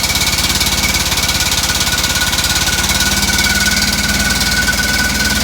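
1967 Volkswagen air-cooled flat-four, a 1600 dual port converted to an air compressor, running steadily with a fast even beat: the front two cylinders fire and the rear two pump air. Compressed air hisses out of the outlet with a steady high whistle.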